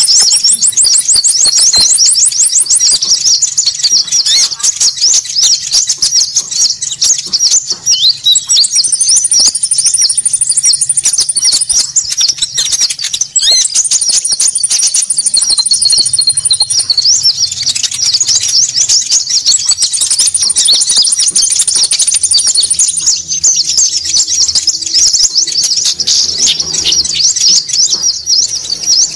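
Bird-lure call of konin, small Indonesian songbirds: a dense, agitated chatter of many high-pitched calls at once. A fast, very high trill comes in for a few seconds at a time, several times over.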